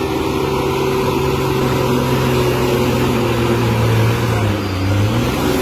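Truck engine running steadily on the move, its pitch dipping lower about four seconds in.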